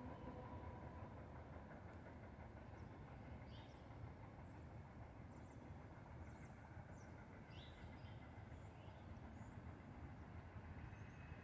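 Faint, steady low rumble of a distant SEPTA Silverliner IV electric commuter train, with scattered short high chirps above it.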